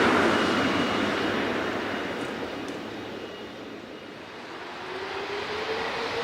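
A Boeing 777-300ER's GE90 turbofans at takeoff thrust: a broad jet roar that fades over the first few seconds as the airliner climbs away. A faint rising tone comes in near the end.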